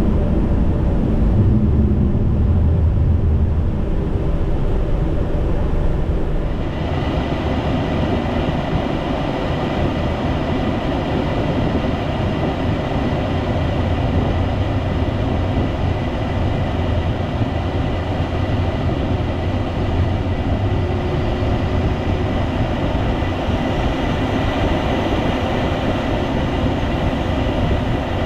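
Steady rumble of airflow and engine noise on the flight deck of a Boeing 757 freighter climbing out. About six seconds in, the noise turns brighter and more hissy, with a faint steady whine, and then holds steady.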